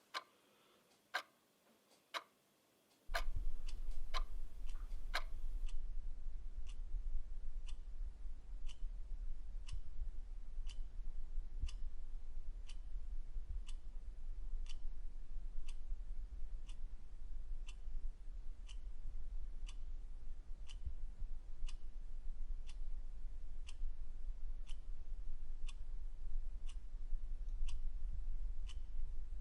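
Clock ticking evenly, about two ticks a second. About three seconds in, a steady low hum comes in underneath and the ticks turn fainter and sharper.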